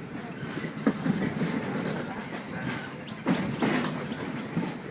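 Steam train's cars rolling along the track, a steady rumble with a few sharp wheel clicks over the rail joints.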